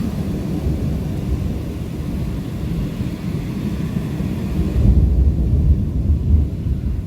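A thunderclap that breaks in suddenly and rolls on as a deep rumble, swelling to its loudest about five to six seconds in.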